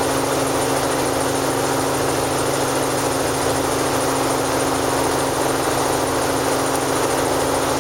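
Helicopter engine and rotor running with a steady, unbroken drone and a constant low hum.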